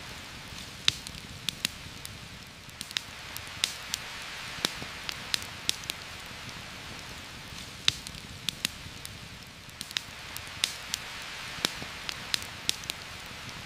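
Steady rain hissing, with frequent irregular sharp crackles and pops from a campfire burning.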